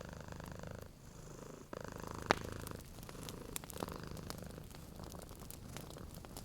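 Domestic cat purring steadily, the purr swelling and easing with each breath, over a wood fire crackling with occasional sharp pops, the loudest about two seconds in.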